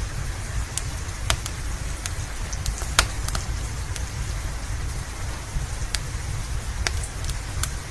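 Fireplace crackling with scattered sharp pops, the loudest about three seconds in, over steady rain and a low rumble.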